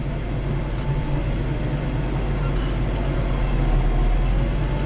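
Kubota L3940 compact tractor's diesel engine running steadily under load, a low, even drone heard from inside the closed cab.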